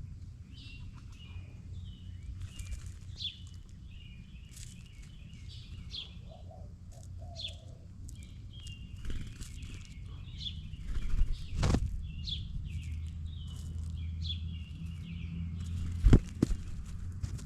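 Small birds chirping in many short, quick notes over a steady low rumble. Two sharp knocks, the loudest sounds, come about two-thirds of the way in and near the end.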